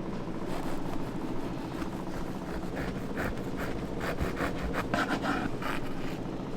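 A run of short, irregular rasping scrapes, busiest in the middle, over a steady low hum.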